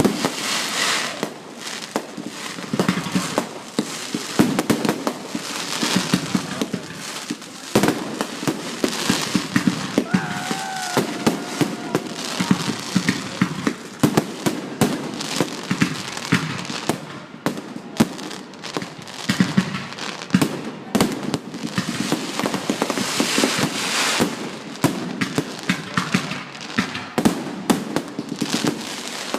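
Fireworks display going off: a dense, continuous run of bangs and crackling, with a short wavering whistle about ten seconds in.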